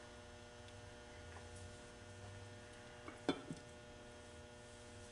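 Steady low electrical hum in a quiet workshop, with two light sharp clicks of metal parts knocking together a little past three seconds in.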